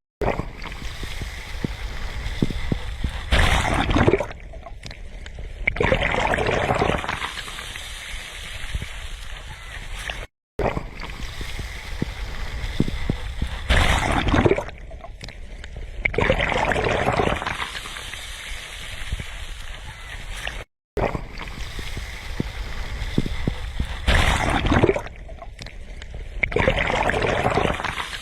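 Sea waves breaking on the shore about every ten seconds: each wave comes in as a sudden loud surge, followed by a longer hiss of the wash running up the beach. The sound cuts out for a moment between each wave.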